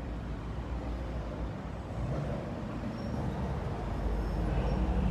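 Steady rumble of road traffic, gradually growing a little louder.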